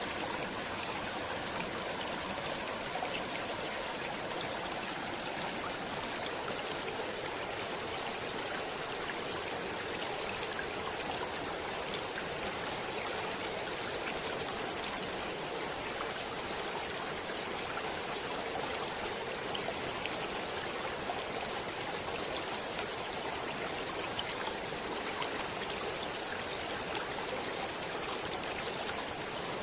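Shallow stream flowing steadily over stones, with a constant rushing and fine trickling splashes.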